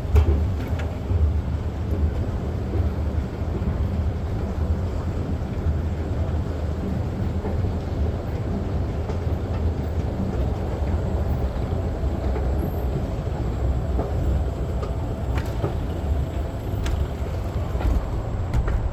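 PATH rapid-transit train running: a steady low rumble with a few sharp clicks.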